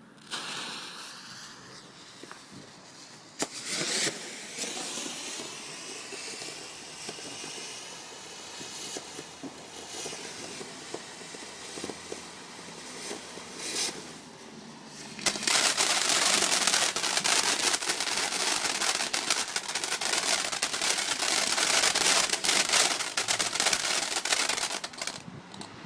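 Garden firework going off: hissing with a few sharp pops, then about fifteen seconds in a dense, loud crackling of rapid snaps that lasts some ten seconds before dying away near the end.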